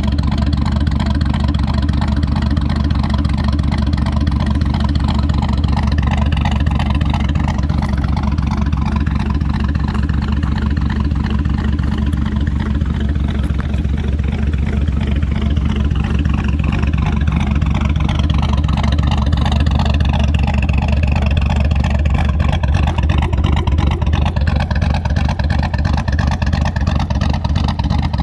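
Truck V8 with a BTR Norris truck camshaft idling in park at about 700 rpm through stock exhaust manifolds, catalytic converters and a deleted muffler. The idle runs steady with a lopey, choppy cam sound.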